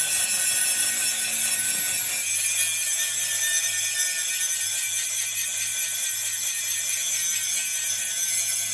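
Steady, hissing metalworking noise on a steel loader boom, joined about two seconds in by a low steady hum.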